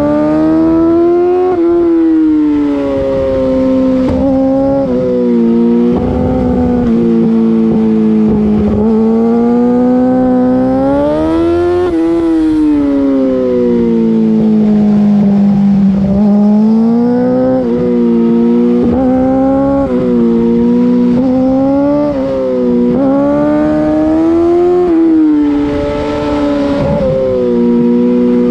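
2008 Yamaha R6's 600 cc inline-four engine through an Akrapovic full race exhaust, heard on board while riding a twisty road. The engine note climbs and falls again and again as the throttle is opened and closed through the bends.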